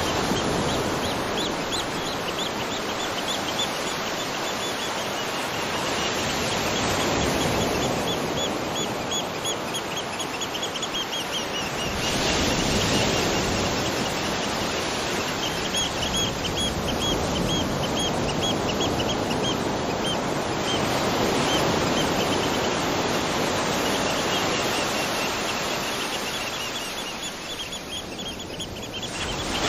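Waterfall rushing steadily, with a rapid string of high chirps repeating in several bouts of a few seconds each over the water noise.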